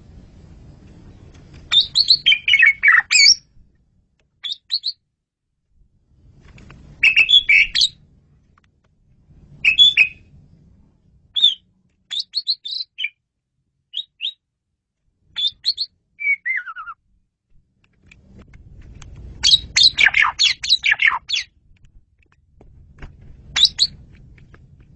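Asian pied starling (jalak suren) singing in short bursts of loud chattering and whistled notes with pauses between them, including a falling whistle about two-thirds of the way through.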